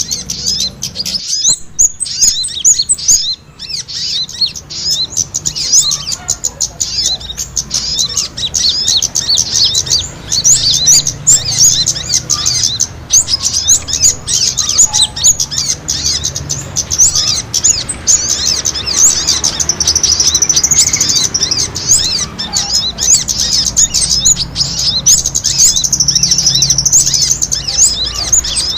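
Many small birds chirping very rapidly and excitedly together, in a dense, unbroken stream of high, quick notes: the agitated calls of small birds fighting, used as a lure to draw in wild birds.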